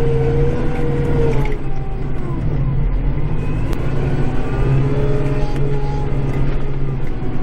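Kubota tractor's diesel engine running steadily under work, heard from inside the cab, its pitch drifting up and down a little.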